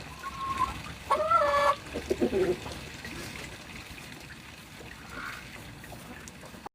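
Hens clucking and calling, with one loud drawn-out squawk about a second in and a run of short clucks just after, over a steady trickle of water.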